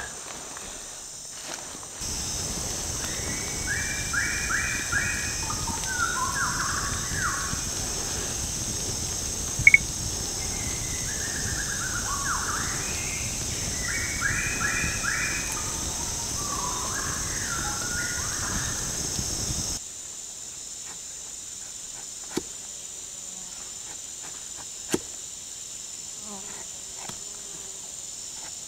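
Tropical forest ambience: a steady high-pitched insect drone with a bird calling in quick repeated phrases twice, over a low rushing noise, and one sharp click about ten seconds in. A little before twenty seconds this ends abruptly, leaving a quieter background with a few faint clicks.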